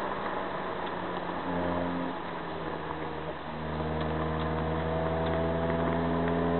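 Car engine heard from inside the cabin over tyre and road noise. About three seconds in the engine sound drops briefly, then it pulls hard again under acceleration, its pitch climbing steadily.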